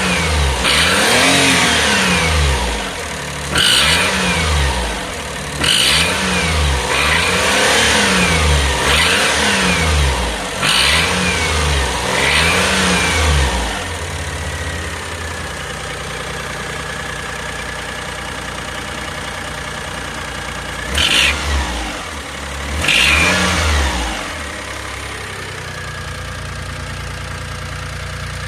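Daihatsu Atrai Wagon Turbo's small engine being revved in short blips, about six in a row, each rising and falling back. It then settles to a steady idle, is revved twice more, and returns to idle.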